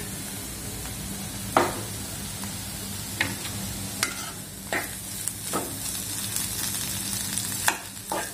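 Dried prawns, potato and green chillies sizzling in oil in a non-stick kadhai while a steel spoon stirs them. Sharp clicks of the spoon striking the pan sound about once a second over the steady sizzle.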